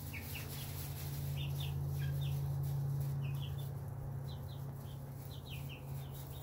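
Young chickens peeping in many short, high chirps, irregular and frequent throughout, over a steady low hum.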